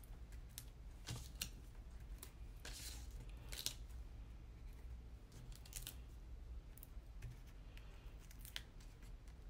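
Paper-craft handwork: a scattering of short crisp snips and paper rustles, irregularly spaced, over a faint steady hum.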